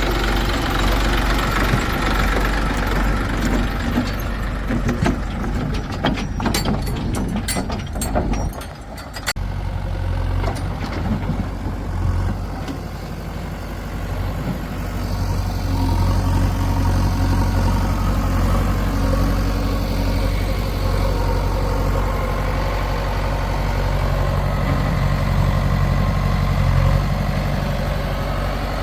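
Heavy diesel engine running at a work site, with a series of sharp clanks and knocks between about four and nine seconds in, then running steadily and a little louder through the rest.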